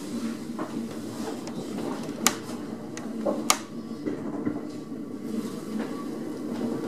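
A 3-car electric multiple unit train, heard from inside the driver's cab, rolling slowly with a steady low running rumble. About two and three and a half seconds in come two sharp clacks as the wheels pass over pointwork.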